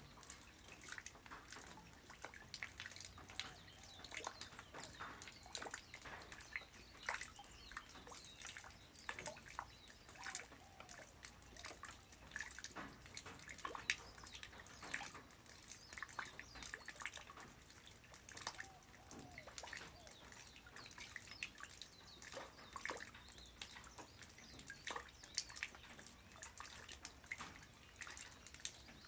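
Light rain falling on the ground: a soft, constant patter of many separate drops and drips at an uneven pace.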